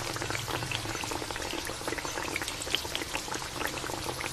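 Sauce simmering in a wok around a whole chicken, bubbling with many small irregular pops, while a ladle scoops up the liquid and pours it back over the chicken.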